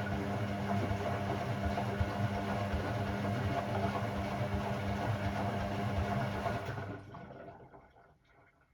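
Hoover Six Sportswear 1300 washing machine running with a steady hum, which cuts off about seven seconds in and dies away.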